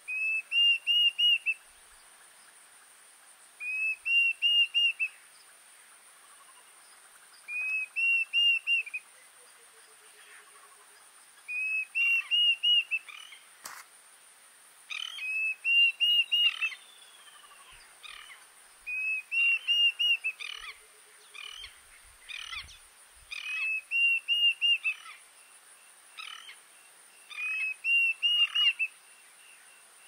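A songbird singing the same short phrase over and over, four or five quick whistled notes, about every four seconds, over a steady high hiss.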